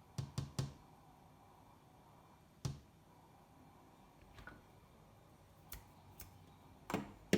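Fingers tapping on a window pane: a quick run of three taps at the start, then single taps spaced a few seconds apart, the loudest two near the end.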